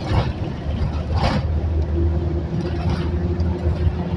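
Road vehicle running, heard from inside: a steady low rumble, a brief hiss about a second in, and a steady hum that joins about halfway through.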